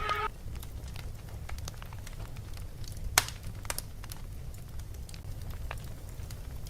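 Fireplace crackling: scattered sharp pops and snaps, one louder pop about three seconds in, over a steady low rumble. At the very start, the tail end of a louder buzzing burst cuts off.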